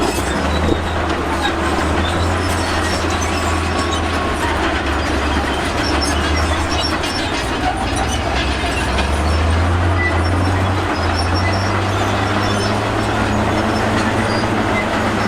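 Crawler bulldozer working: a steady diesel engine drone with its steel tracks clanking and squealing.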